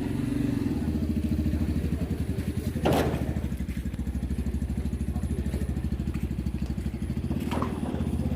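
Small vehicle engine running steadily with a quick, even pulse, with a sharp knock about three seconds in and a fainter one near the end.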